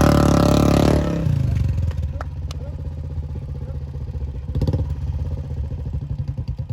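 Royal Enfield Bullet 350's single-cylinder engine revving loudly, then dropping off about a second in to a softer, even thumping beat. The throttle is blipped briefly a little past the middle.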